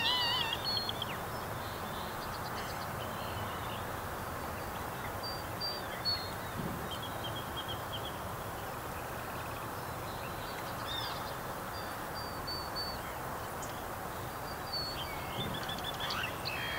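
Steady running noise of a train heard from inside the carriage, with short high chirps and squeaks coming and going every few seconds.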